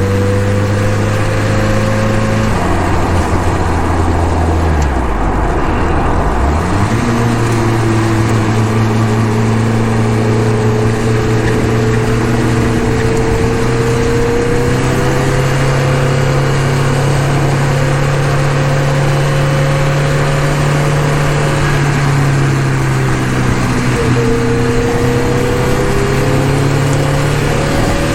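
Honda K-series four-cylinder (K24 block with K20 head) engine pulling the car along at moderate revs, freshly built and not yet tuned, so driven gently. The engine note dips for a few seconds, then climbs slowly for a long stretch; near the end it drops sharply and climbs again, over steady road and wind noise.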